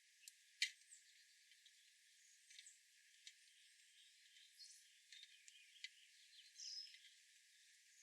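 Faint outdoor ambience with scattered short bird chirps and a few sharp clicks, the loudest click about half a second in.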